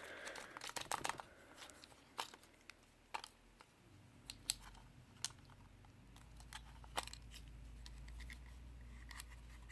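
Scattered small clicks and rustles of hands handling a plastic remote while trying to fit a 9-volt battery into its battery compartment. A low steady hum comes in about six seconds in.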